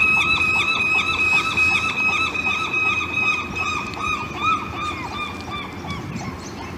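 Gull calling in a rapid, steady series of short rising-and-falling notes, about four a second, fading away near the end.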